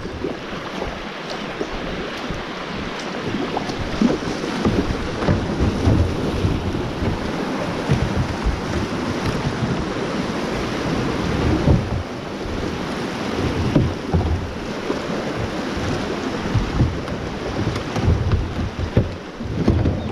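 Creek water rushing and splashing around a small kayak, steady throughout, with wind buffeting the microphone in irregular low rumbles.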